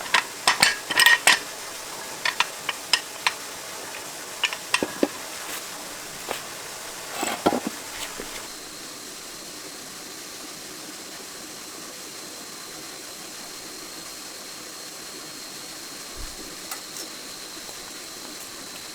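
Hand tools and metal parts clinking and tapping against each other during work on a tractor. There is a quick cluster of clinks in the first second or so, then scattered single clinks up to about eight seconds in. After that only a thin steady high whine stays in the background.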